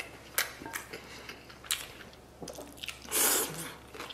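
A person chewing a mouthful of rice and braised pork belly: scattered wet mouth smacks and clicks, with a louder hissing rush about three seconds in.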